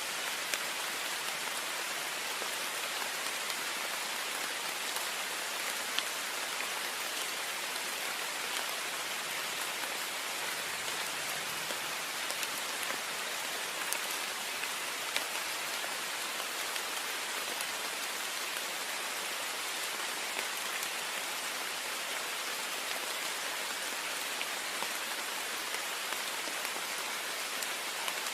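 Heavy rain falling steadily on a window, a constant hiss scattered with the taps of single drops.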